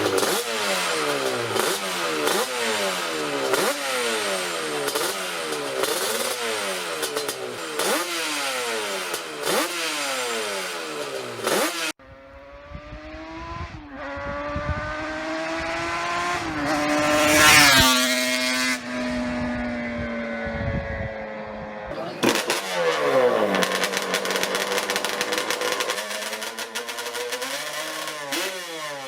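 Two-stroke motorcycle engines revving over and over in quick rising-and-falling blips. About halfway through, one motorcycle accelerates past, rising to its loudest and dropping in pitch as it goes by. Then the quick revving comes back.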